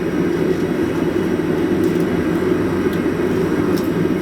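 Gas burner running with a steady rushing noise, heating the steel hinge blanks to give them an even black finish, with a few faint ticks.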